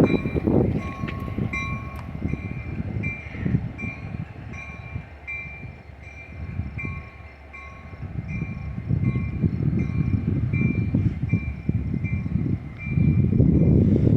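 Freight train rolling slowly with a low rumble that swells again near the end, while a railroad bell dings steadily, a little faster than once a second.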